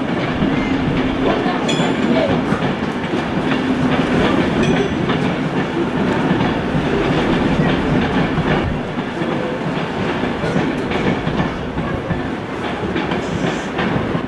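Virgin Trains Class 390 Pendolino electric train running over the tracks and pointwork below, a steady rumble of wheels on rail with a few scattered clicks.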